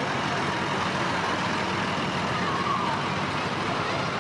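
Tractor engines running steadily, mixed with the rumble of vehicles on the road.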